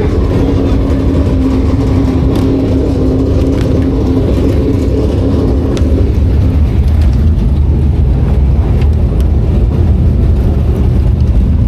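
A motor vehicle's engine running, a constant low rumble with a held droning tone that stops about six seconds in while the rumble carries on.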